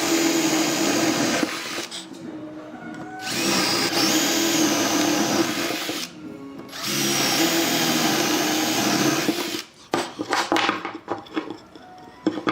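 A power tool running in three bursts of a few seconds each, with short pauses between, then a few knocks and clicks of parts being handled near the end.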